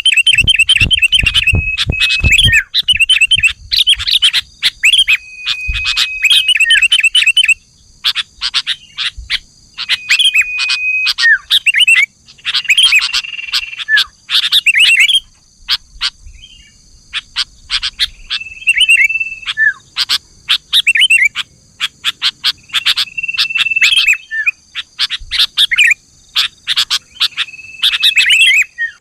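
Sooty-headed bulbuls calling in fast bursts of chirps and short whistled notes, with a brief pause about halfway through. A steady high-pitched hum runs underneath.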